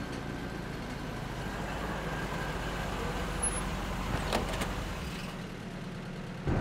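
A motor vehicle's engine running with a steady rumble. The low part of the rumble falls away about five seconds in.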